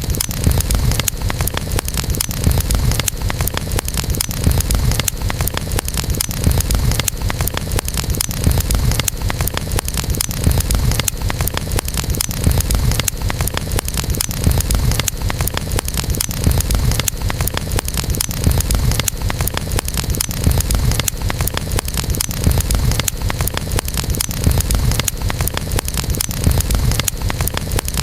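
Wood campfire crackling steadily, with many small sharp pops over a constant low rumble.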